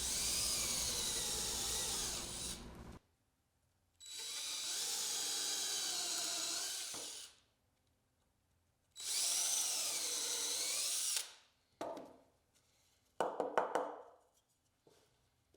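A power drill drives #6 wood screws into a cedar birdhouse base in three runs of about two to three seconds each, its motor pitch wavering under load. A few short clicks and rattles follow near the end.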